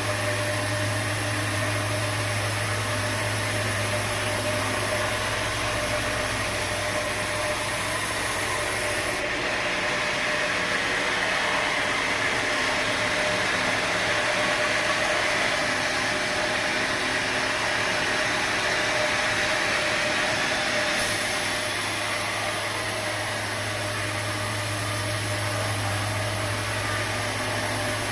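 Sawmill machinery running with a steady hum and noise. About a third of the way in, the low hum drops away and a brighter noise takes over for about twelve seconds, then the hum returns.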